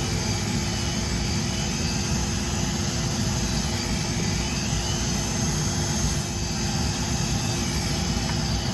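Flex-shaft rotary carving tool running with a small burr grinding wood: a steady high whine over a low hum, its pitch shifting slightly as the bit bites.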